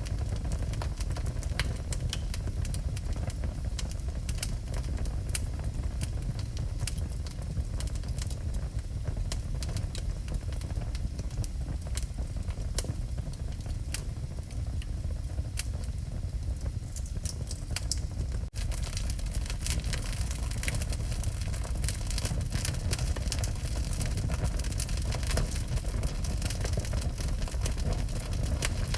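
Wood fire burning in a fireplace: a steady low rumble of the flames with frequent sharp crackles and pops of burning logs. A brief dropout about two-thirds through, after which the crackling is brighter.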